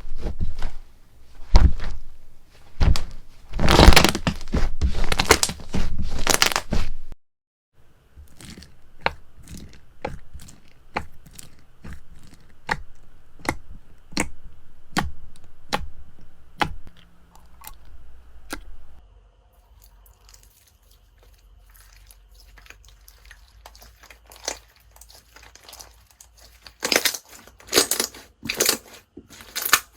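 Slime being squeezed and pulled by hand, giving crunchy crackles, pops and tearing sounds. The crackling is loud and dense for the first several seconds, breaks off suddenly into quieter scattered clicks, and comes back loud near the end.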